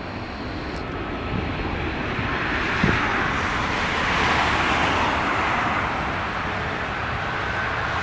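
Jet engine noise of a landing Ryanair Boeing 737-800, its CFM56 turbofans giving a steady rush that swells to a peak about halfway through and then eases slightly. A short knock comes near three seconds in.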